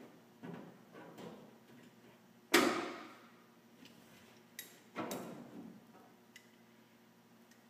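Scattered metal knocks and clanks as a patch panel is worked into place against a truck box side and clamped with vice grips. The loudest knock comes about two and a half seconds in.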